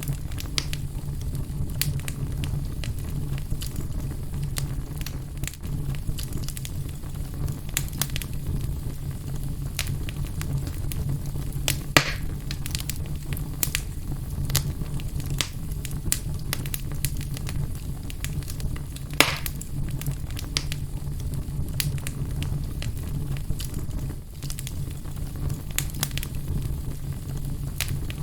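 Fire burning in a fireplace: a steady low rumble of flame with frequent sharp crackles and pops, two of them louder, near the middle and about two-thirds of the way through.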